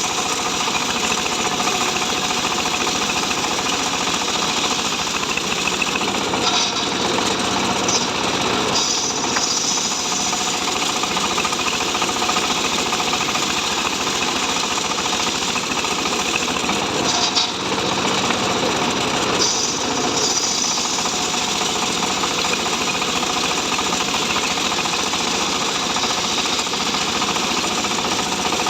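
Engine-driven saw running steadily while cutting mahogany wood, a continuous loud machine noise with no break.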